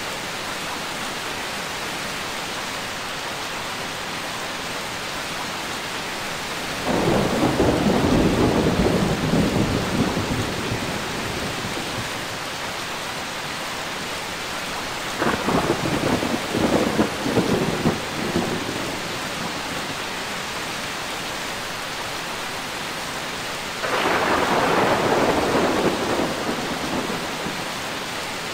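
Steady heavy rain with three rolls of thunder, each breaking in suddenly, rumbling for a few seconds and fading back into the rain: the first about a quarter of the way in, the second past the middle, the third near the end.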